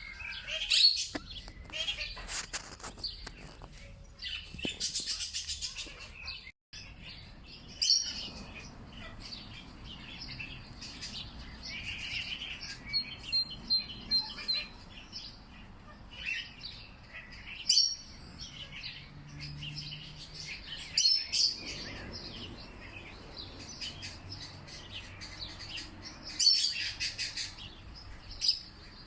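Several wild birds chirping and singing, with short sharp calls and song phrases overlapping one another and a faint low background hum beneath.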